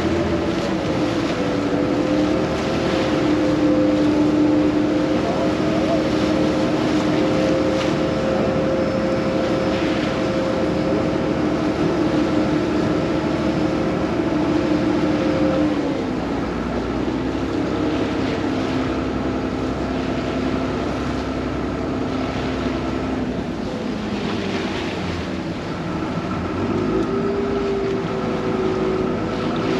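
Vaporetto water bus's diesel engine running steadily with wind and water noise. Its pitch drops about sixteen seconds in and rises again near the end as the boat changes speed.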